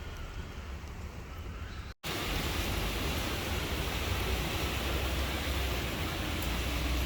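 Storm wind and rain, a steady rushing noise with a deep rumble underneath. It cuts out for an instant about two seconds in and comes back louder.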